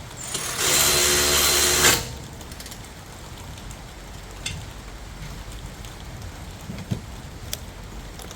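Power tool run in one burst of about a second and a half, a steady whine over a hiss, followed by a few light clicks.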